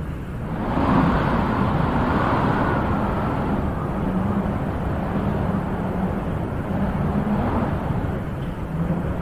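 Wind blowing steadily, with a gust swelling about a second in and then easing to a steady rush.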